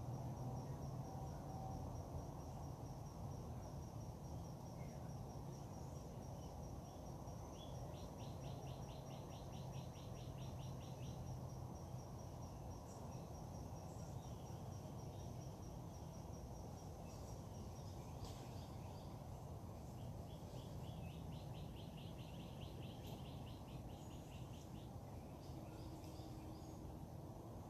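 Faint outdoor dawn ambience over a steady low background rumble. An insect keeps up a thin, high, pulsing trill that stops about two-thirds of the way through. Birds call and chirp, with a short rapid trill about eight seconds in and another about twenty-one seconds in.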